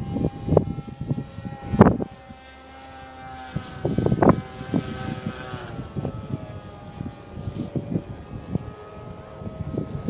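Scratch-built RC model F-22's motor and propeller whining in flight. The whine holds a steady pitch, then drops about six seconds in as the throttle eases. Wind gusts buffet the microphone, loudest twice early on and again about four seconds in.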